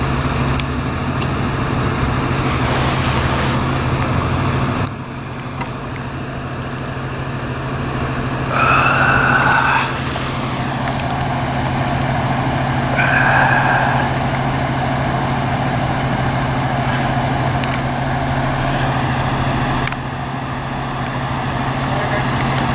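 A large vehicle's engine idling with a steady low hum, among street traffic. Two short, higher-pitched sounds break in, one about nine seconds in and another about four seconds later.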